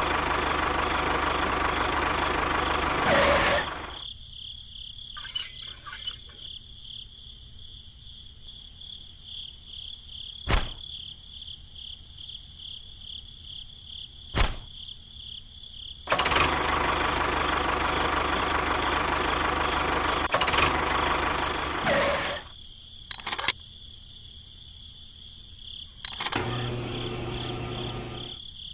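Small motor-driven machine running in two spells of a few seconds each, a dense mechanical rattle with a steady high whine, separated by quieter stretches with a few sharp clicks.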